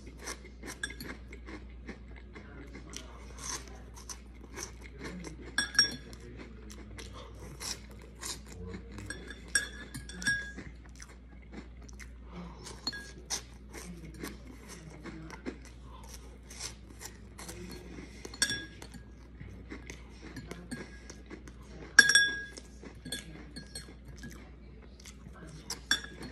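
Crunchy Flamin' Hot fries being chewed close to the microphone, with a metal fork repeatedly clinking and scraping against the bowl. One sharp, ringing clink about three-quarters of the way through is the loudest.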